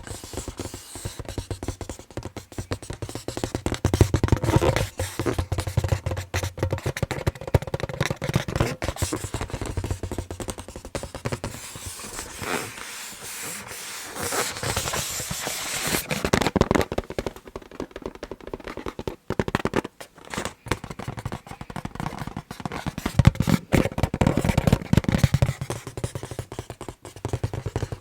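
Fingers tapping and fingernails scratching on an inflated balloon, in a rapid, dense stream of taps and scrapes. In some stretches the taps carry a low, hollow thump.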